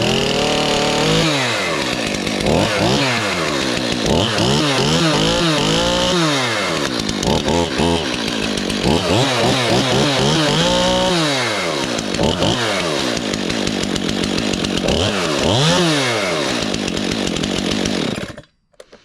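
Stihl MS-291 Farm Boss two-stroke chainsaw running just after a one-pull cold start, revved up and let back down to idle about six times, then shut off near the end.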